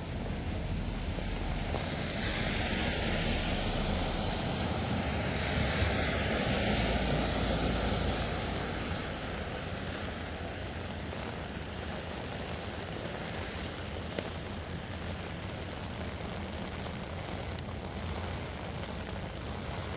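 Steady rain pattering on an umbrella, with the tyres of a car on wet pavement hissing louder as it passes between about two and eight seconds in, then fading back to the rain.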